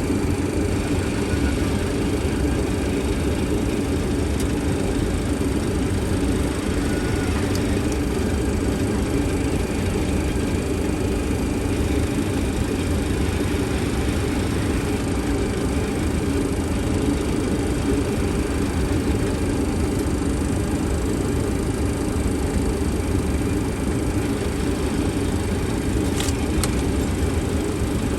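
Steady flight-deck noise of an MD-80 on final approach with landing gear down: continuous airflow noise around the cockpit over a low, even rumble.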